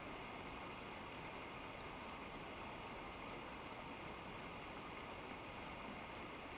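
Steady rushing of a cold mountain river or cascade: an even, unbroken water noise.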